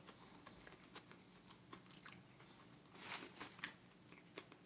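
A person chewing food with the mouth closed: faint, scattered wet mouth clicks and soft crunches, with a sharper, louder click about three and a half seconds in.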